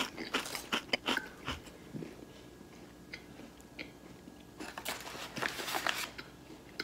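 Chewing a mouthful of fried chicken sandwich: soft, crunchy chewing clicks, busiest in the first second and again about five seconds in.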